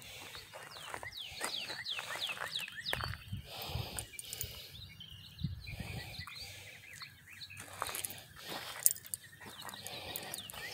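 A bird singing runs of quick falling chirps, mostly in the first three seconds and again at the very end, over footsteps crunching on track ballast. One sharper click comes about nine seconds in.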